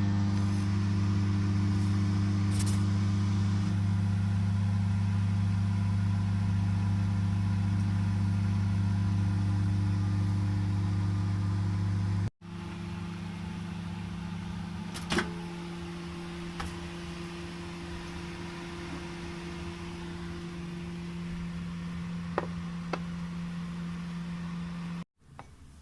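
Microwave oven running: a steady low electrical hum. About halfway through it cuts off abruptly and a quieter, lower steady hum takes over, with a sharp click a few seconds later and a couple of faint ticks near the end.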